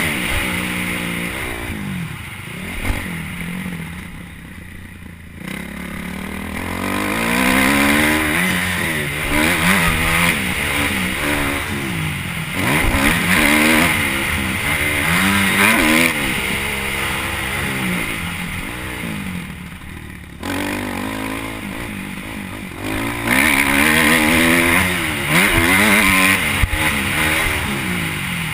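Motocross dirt bike engine revving up and down over and over as it is ridden hard round the track, with the throttle eased off briefly about four seconds in and again about twenty seconds in.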